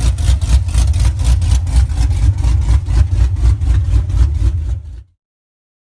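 Dodge Challenger SRT8's Hemi V8 running cold, idling with a loud, pulsing exhaust beat of about five pulses a second. The sound cuts off abruptly about five seconds in.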